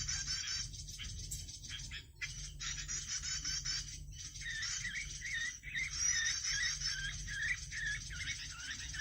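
Small songbird chirping: fast runs of high, wavering, repeated notes broken by short pauses, a lure call for prinias (perenjak). A steady low hum runs underneath.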